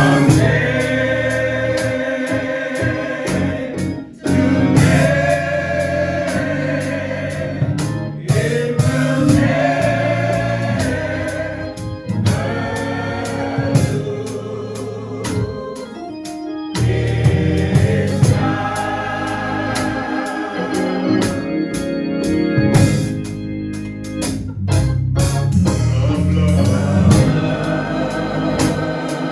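Gospel singing with organ accompaniment: long held, wavering sung notes over a Hammond-style organ and bass, with sharp percussive hits throughout.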